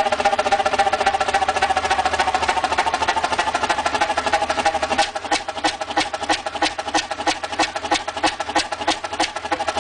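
Large reciprocating engine running with a rhythmic mechanical clatter. From about halfway the beats become sharper and more distinct, roughly three to four a second.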